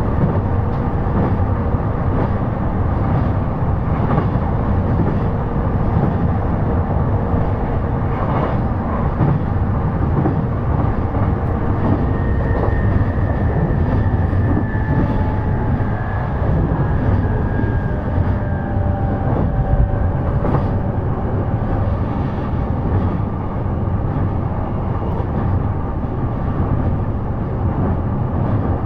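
E233 series electric train running, heard from inside the passenger car: a steady rumble of wheels on rail, with a few clicks and some faint whining tones in the middle.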